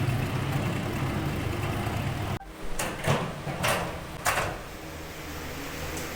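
Steady low machine hum that cuts off abruptly a little over two seconds in, followed by four short sharp strokes spread over about two seconds, then a quieter steady hum.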